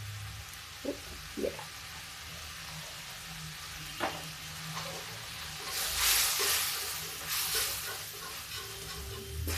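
Onion and spice masala sizzling in oil in a metal kadhai, with a few light taps in the first half. From about six seconds in, a slotted spoon stirs and scrapes through the frying masala in two louder bursts.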